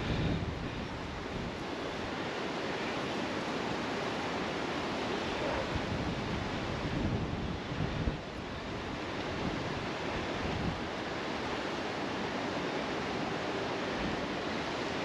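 Wind blowing across the microphone: a steady rushing noise with an uneven low rumble from the gusts.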